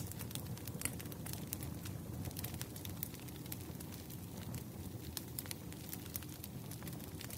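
Burning firewood: irregular sharp crackles and pops over a steady low rumble of the fire.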